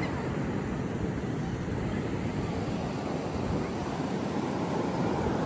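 Steady wind buffeting the microphone in a low rumble, mixed with the wash of ocean surf on the beach.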